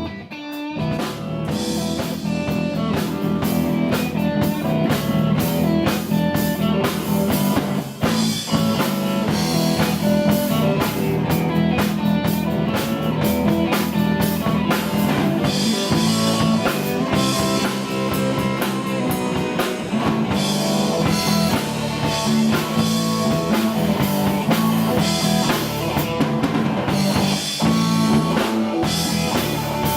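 Live blues-rock band playing, with electric guitar and drum kit. The full band comes in about a second in, after a moment of guitar alone.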